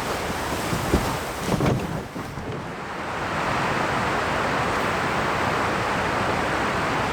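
Steady rush of river rapids, with a few brief knocks about a second in.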